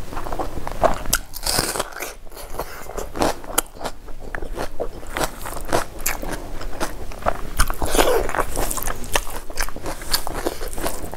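A person chewing a mouthful of crunchy food close to the microphone, with many irregular crunches and crackles.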